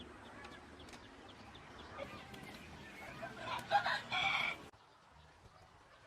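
A loud bird call about three seconds in, lasting just over a second and cutting off abruptly, over faint high chirping in the background.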